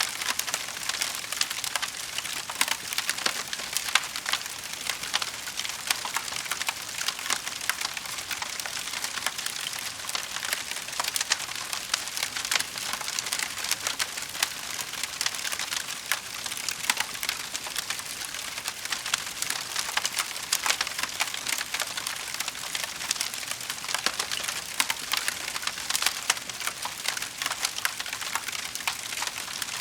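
Wood fire crackling in a fireplace: a steady dense patter of small pops and snaps, with occasional louder cracks.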